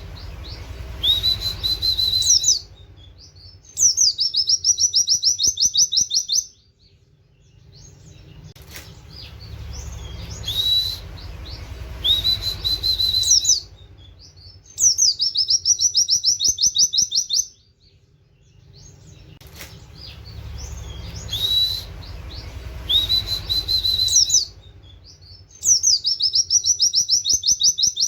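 White-eye (pleci) singing: short rising whistles held on one high note, then a loud, fast trill, the whole phrase repeated three times in canary-like 'wit-wit' style.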